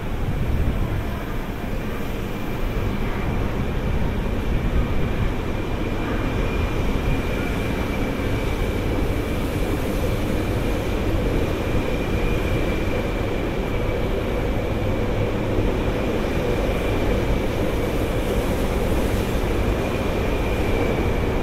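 200 series Shinkansen train rolling slowly into the platform: a steady rumble of wheels and running gear with a thin, steady high whine throughout.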